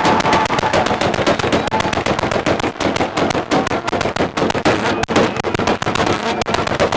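Car engine held on a two-step launch limiter, its exhaust popping and banging in a rapid, continuous string of loud cracks.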